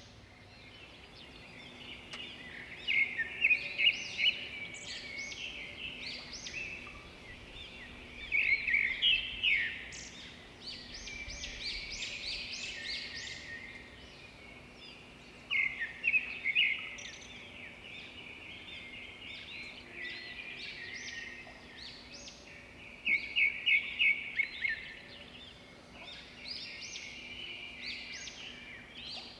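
Several birds chirping and singing together, with one louder bird breaking in four times with a quick series of sharp repeated notes.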